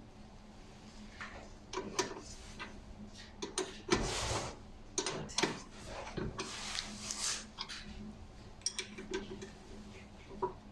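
Brake pad and caliper parts being handled by hand: scattered metallic clicks and clinks, with short scraping or rustling sounds about four seconds and seven seconds in.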